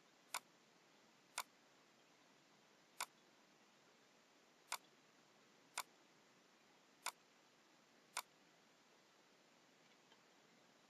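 Computer mouse clicking: seven single sharp clicks at uneven intervals over about eight seconds, against a faint steady hiss.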